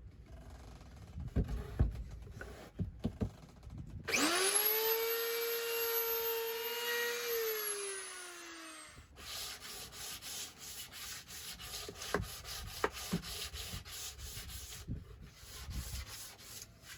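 A handheld electric power tool starts about four seconds in, runs at a steady pitch for about five seconds, then winds down and stops. Before and after it come knocks of handling and a rhythmic rubbing on wood.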